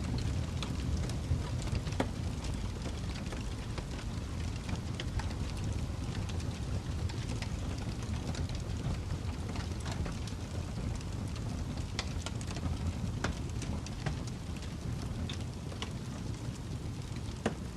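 Fireplace fire burning: a steady low rumble with irregular sharp crackles and pops.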